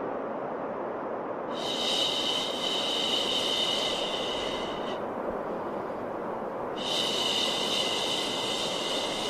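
Baby-soothing 'shhh' shushing: two long hissing shushes, each about three and a half seconds, with a short pause between, over a steady white-noise hiss.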